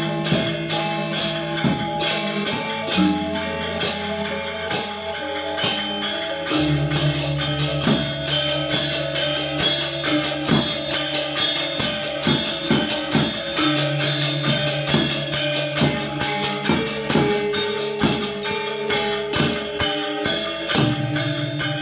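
Balinese gamelan ensemble playing: dense, fast metallic strikes with a shimmering, cymbal-like top, over low gong tones held for several seconds at a time.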